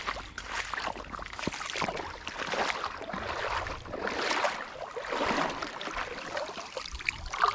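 Shallow river water sloshing and splashing in irregular surges, from something moving through it at the surface.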